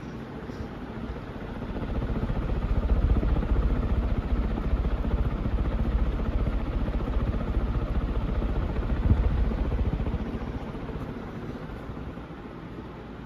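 HRS industrial ceiling fan with three metal blades running. Its low rushing air noise swells up about two seconds in and fades back down near the end.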